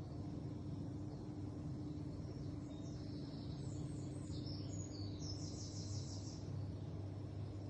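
Small birds chirping, ending in a quick trill between about five and six and a half seconds in, over a steady low hum.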